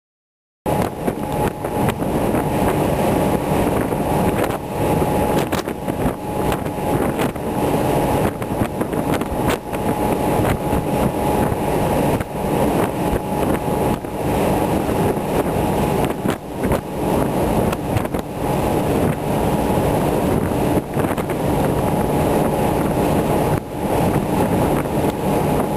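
A ferry's engines droning on deck with a constant hum, with strong wind buffeting the microphone in irregular gusts. It cuts in suddenly about half a second in.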